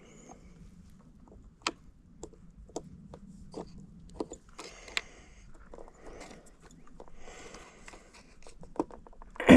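Scattered small clicks and brief scrapes of fuses being pulled and pushed back into a vehicle fuse box with small tweezers, over a faint steady hum.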